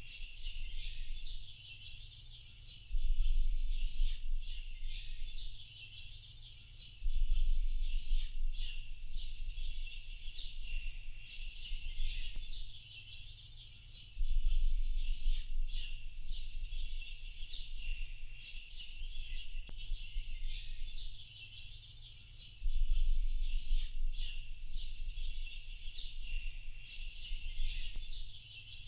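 Dawn-chorus-like ambience of many small birds chirping and twittering continuously, high and busy. A low rumble, the loudest thing at those moments, swells in for a few seconds roughly every four to eight seconds.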